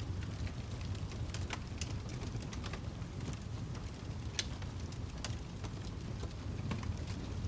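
Wood fire crackling: a steady low rumble with irregular sharp pops and snaps, two of them louder about four and five seconds in.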